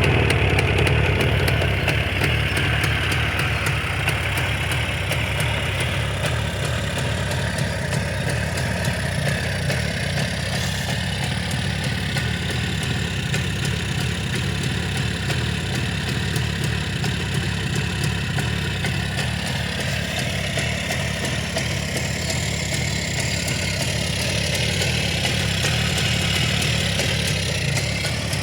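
Jawa 350 two-stroke twin motorcycle engine running steadily at idle, with a fast, even pulsing exhaust beat.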